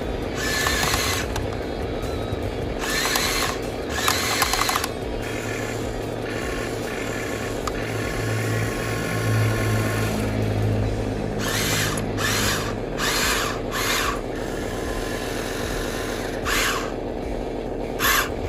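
Small electric motor and gearbox of a radio-controlled model truck or excavator whirring steadily like a small drill, with repeated short, sharp bursts of higher-pitched noise over it.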